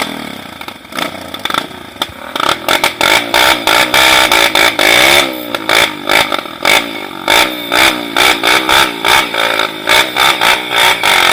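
Trail motorcycle engine revving hard in repeated surges, its pitch rising and falling, with many sharp clattering knocks as the bike struggles over rough ground.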